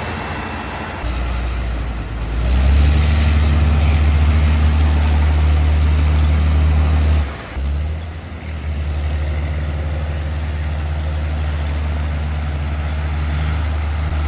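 Heavy off-road truck's diesel engine running under load, a steady low drone. It gets louder about two seconds in, drops out briefly about halfway, then carries on.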